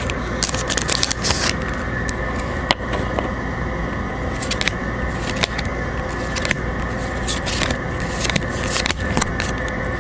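Pokémon trading cards being handled and flipped through, giving scattered short scrapes and clicks over a steady background hum.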